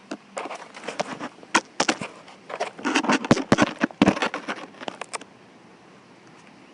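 Empty plastic water bottle wedged into a Razor E300 electric scooter, crackling and clattering in a quick, irregular run of clicks as the scooter is tried out. The clatter is loudest near the middle and stops about five seconds in.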